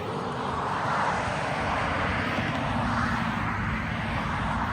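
Steady road-vehicle noise: a hiss that swells about a second in and again near three seconds, over a low steady hum.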